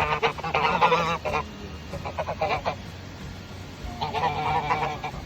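Geese honking in about four bursts, several calls overlapping in each.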